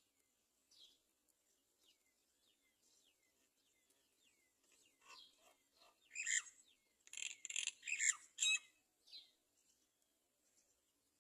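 Great myna calling: a run of faint short chirps that slide downward, then a burst of loud, harsh squawking calls about six to eight and a half seconds in.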